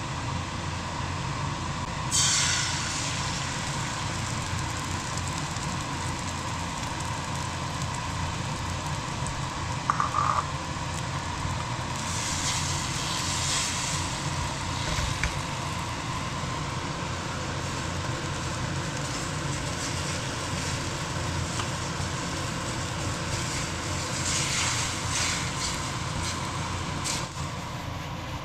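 Eggs frying in a pan: a steady sizzle over a low rumble, with the hiss swelling louder a few times and one short sharp knock about ten seconds in.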